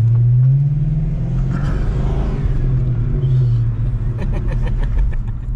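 2006 Dodge Charger R/T's 5.7-litre Hemi V8 pulling under acceleration, heard from inside the cabin over road rumble: its low note climbs in the first second, then slowly eases down. A few light clicks come near the end.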